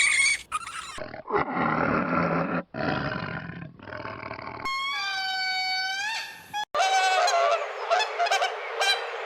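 A string of different animal calls joined by abrupt cuts: rough, noisy roaring calls first, then one drawn-out clear pitched call about halfway, then more mixed calls.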